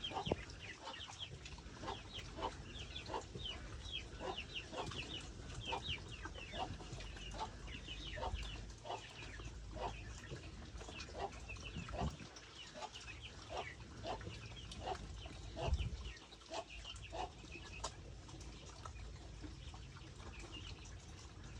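Animals feeding, with many short high-pitched falling peeps, a few a second, over small clicks.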